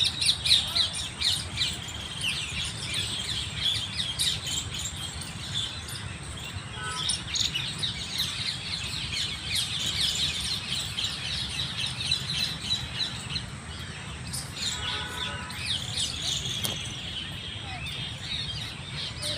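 Many small birds chirping and twittering together in a continuous evening chorus of high calls. Twice a brief lower call cuts through, about 7 seconds and 15 seconds in.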